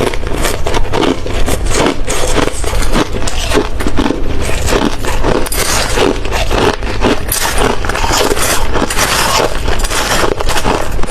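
Close-up chewing of hard ice: a continuous, rapid run of loud crunches and cracks as the ice cubes are bitten and crushed between the teeth.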